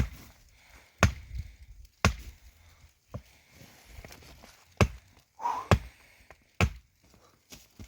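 Firewood being chopped: a series of sharp wooden blows about a second apart, a few of them lighter.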